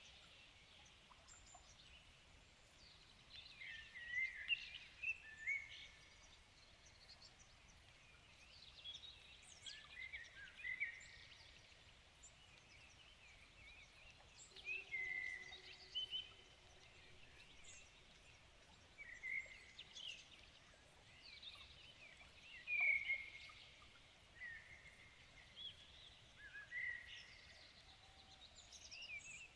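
Songbirds singing in the evening, short warbling phrases coming every few seconds over a faint steady background hiss.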